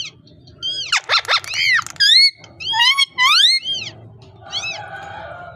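Parrot calling: a rapid run of loud, high cries that slide up and down in pitch for about three seconds, then one shorter, weaker cry near the end.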